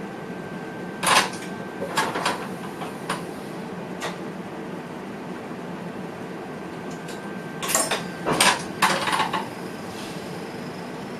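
Steady hum inside the driver's cab of a VIRM electric train, broken by sharp metallic clicks and rattles: one about a second in, a few more over the next three seconds, and a quick cluster near the end.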